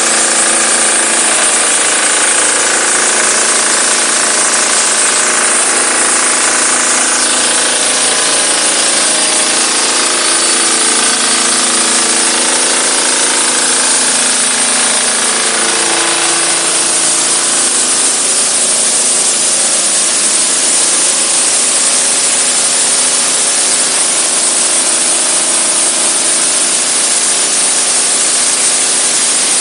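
Diesel engine of a self-powered pressure washer running steadily under a loud hiss of high-pressure spray; its pitch drops about sixteen seconds in.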